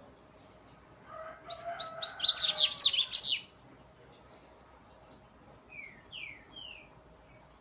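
Young double-collared seedeater (coleiro) singing: a quick run of rapid sweeping whistled notes lasting about two seconds, then, a couple of seconds later, three short falling notes.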